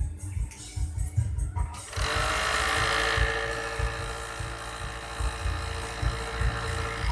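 Overdeck (coverstitch) sewing machine running at a steady high speed, starting about two seconds in and stopping abruptly near the end, over background music with a steady beat.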